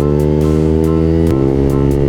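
A 150 cc motorcycle with a racing exhaust accelerating: its pitch climbs, drops sharply about a second and a half in as it shifts up a gear, then climbs again. Music plays along with it.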